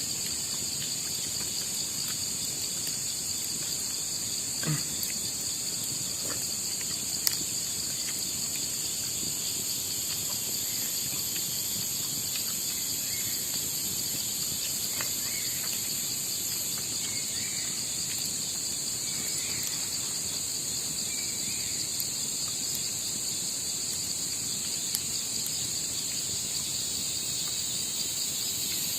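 Night chorus of insects such as crickets, a steady shrill trilling in several high pitches throughout, with a couple of faint knocks about five and seven seconds in.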